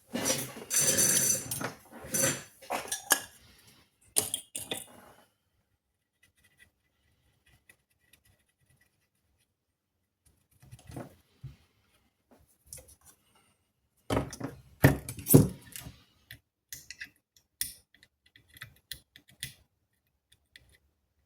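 Small hard objects clinking and clattering in irregular bursts, with quiet gaps between them.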